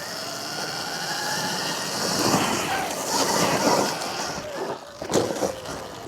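Surron Ultra Bee electric dirt bike being ridden: tyre and wind noise with a faint motor whine, louder in the middle, and a sharp knock about five seconds in.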